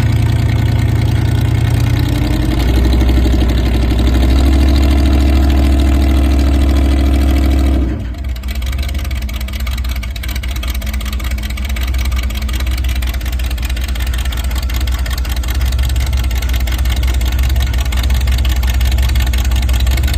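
Vehicle engine running with a steady low drone; its pitch steps up a couple of seconds in, then about eight seconds in the sound drops off suddenly to a quieter, lower engine rumble that runs on steadily.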